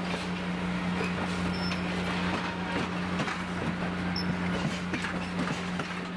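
Train running: a steady low engine hum under a haze of running noise, with scattered short clicks and rattles.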